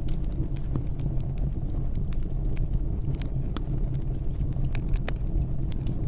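Wood fire burning with a low steady rumble and irregular sharp crackles and pops, a few each second.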